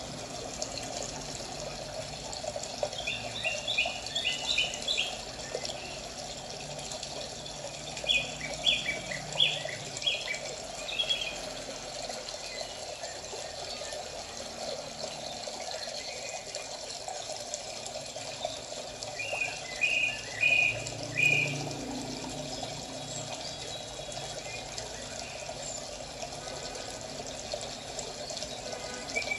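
Birds chirping in three bursts of quick repeated high notes, a few seconds in, about eight seconds in and about twenty seconds in, over a steady background noise.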